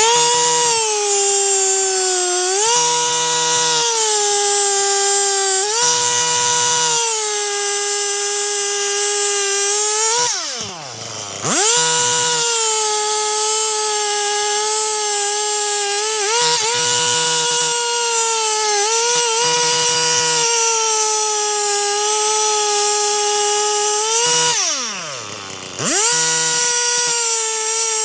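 Stihl MS 261 C-M two-stroke chainsaw running at full throttle and cutting wood, its pitch sagging under the load of each cut. Twice, about ten seconds in and again later, the throttle is let off, the pitch falls steeply, and the saw revs straight back up.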